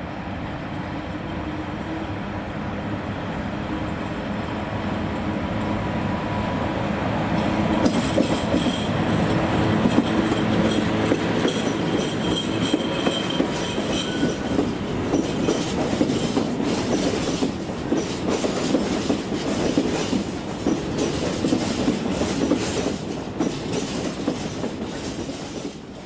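A PKP Cargo electric freight locomotive draws near, growing louder over the first eight seconds or so. A long train of open freight wagons then rolls past close by, with a fast clickety-clack of wheels over rail joints and a faint wheel squeal for a few seconds. The sound eases off near the end.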